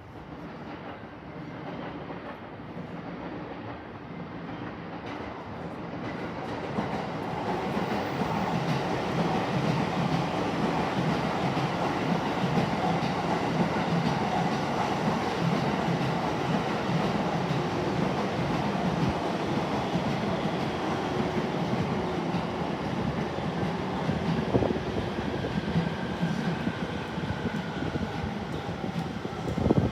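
A train running along the tracks through the station: its rolling noise grows over the first several seconds, then holds steady and loud.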